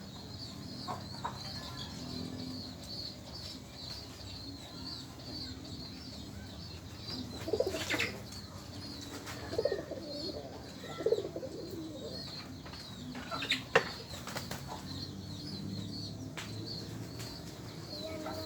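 Domestic pigeons flapping their wings and cooing in a few short bursts, over a steady high chirping in the background.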